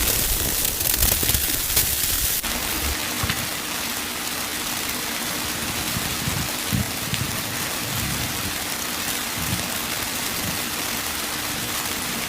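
Steady hiss of precipitation falling on a surface, with an abrupt change in the sound about two and a half seconds in.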